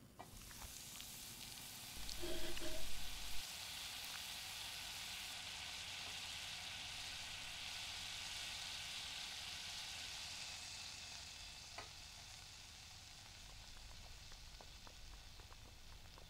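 Potato-and-egg omelette sizzling in hot olive oil as it is slid from a plate back into the frying pan, raw side down, after the flip. The sizzle is loudest about two seconds in, then holds steady and slowly dies down as the omelette settles to cook on low heat.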